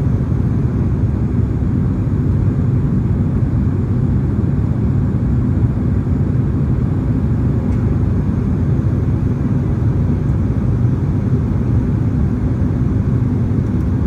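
Steady low rumble of engine and airflow noise inside the cabin of a Boeing 767-300ER airliner in flight.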